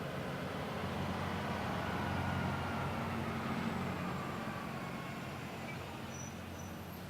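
Diesel locomotive engines running, a steady low drone that swells slightly a couple of seconds in and eases off toward the end.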